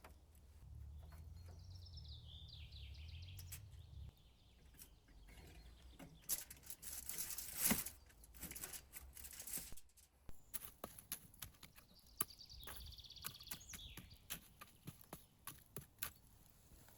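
A songbird sings a quick descending trilled phrase, twice, over a forest background. Irregular sharp clicks and crackles run through it, densest and loudest with a hiss in the middle.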